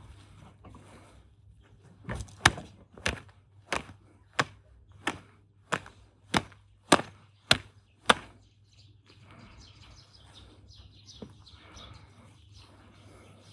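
Hammer striking about ten times at an even pace of nearly two blows a second, during hands-on car repair work.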